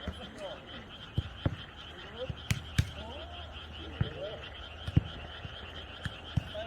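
Frogs croaking in chorus over a steady, pulsing high trill of night insects, with a few sharp knocks of a jokgu ball being kicked and bouncing.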